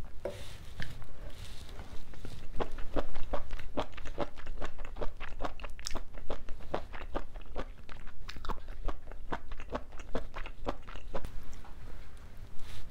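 Close-miked chewing of a mouthful of spicy braised seafood (haemul-jjim), with a steady run of crisp crunches, about three a second.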